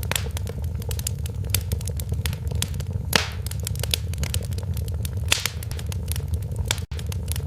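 Wood fire crackling: irregular sharp pops and snaps over a steady low rumble, with one louder pop about three seconds in. The sound cuts out for a split second near the end.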